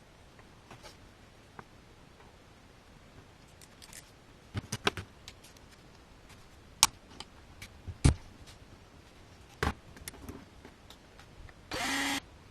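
Scattered metallic clicks and knocks of hand tools and engine parts being handled during work on a motorcycle engine's crankcase, with a few sharp knocks standing out. Near the end there is a short buzz, under a second long.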